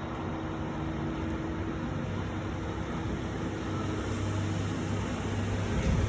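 A steady low mechanical hum under a constant rushing noise, growing a little stronger about four seconds in. No birdsong is heard.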